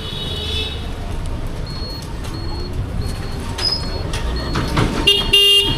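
Wind and road rumble on the microphone while riding a Bajaj Chetak electric scooter, with a brief loud pitched tone near the end.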